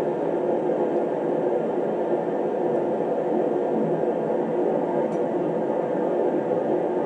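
Heater running with a steady, unchanging blowing hum.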